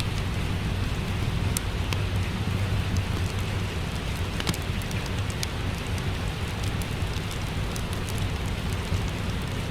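Steady rain with a low rumble underneath, mixed with a crackling fireplace whose sharp pops come every second or so.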